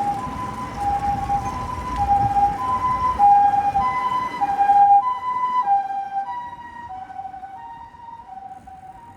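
Japanese ambulance's two-tone hi-lo siren, alternating between a higher and a lower note, each held a little over half a second. It grows louder, then drops slightly in pitch about halfway through and fades as it passes and moves away.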